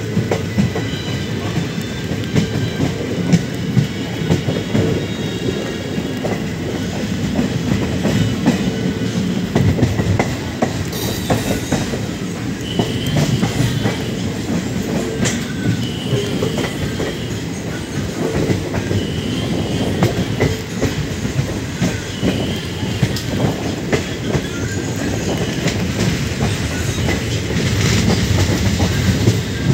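Passenger coaches of a moving express train running over the rails, heard from an open coach door: a steady loud rumble with rapid clicks from the wheels, and short high squeals recurring every few seconds in the middle part.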